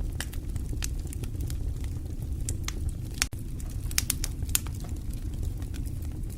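Fire crackling: irregular sharp snaps and pops, a few louder ones about two thirds of the way through, over a steady low rumble.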